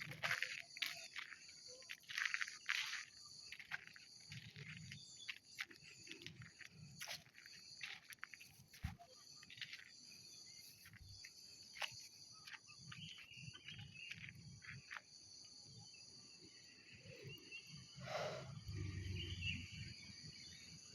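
Field ambience: a steady high-pitched insect chirring throughout, with scattered short rustles and clicks, and a low rumble near the end.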